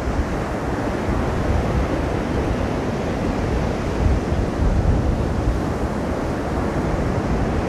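Storm surf breaking steadily, mixed with strong wind rumbling on the microphone.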